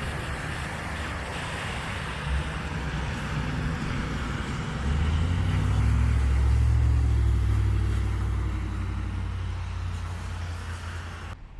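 A motor vehicle's engine passes close by as a low hum that swells about halfway through and fades again. Under it runs the steady rush of floodwater, and the sound cuts off suddenly near the end.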